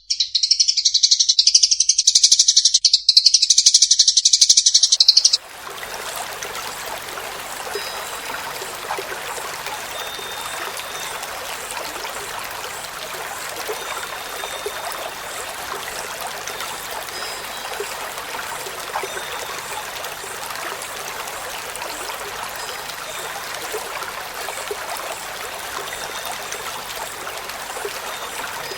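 A songbird sings loudly in a fast, unbroken stream of chattering notes, then cuts off abruptly about five seconds in. A steady rushing of running water follows, with faint short high chirps over it.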